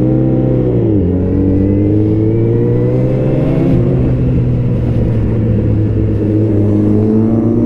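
Motorcycle engine running while riding, its pitch dropping about a second in and then rising slowly as it gathers speed before holding steady.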